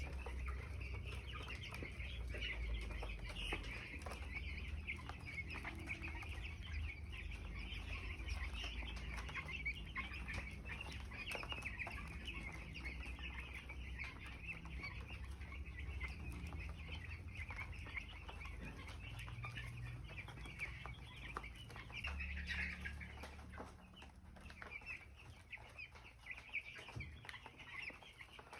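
A brood of 17-day-old poultry chicks peeping continuously, many at once, over a steady low rumble.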